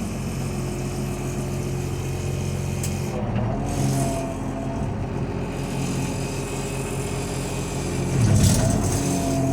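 John Deere 548E skidder's diesel engine running steadily. Its note shifts about three seconds in and again near the end, where it briefly gets louder.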